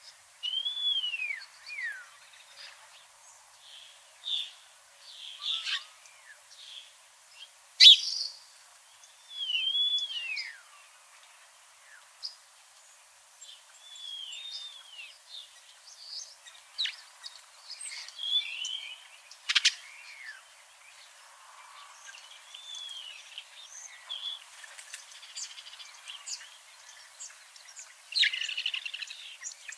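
Several wild birds calling and singing: one call, an arched whistle that rises and then falls, repeats every few seconds among scattered short chirps and trills, with two sharp chips, the loudest about eight seconds in.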